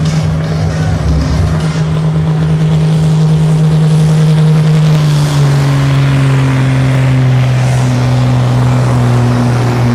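Super Sport class pulling tractor's engine running hard under load, a loud steady tone that drops slightly in pitch about five seconds in.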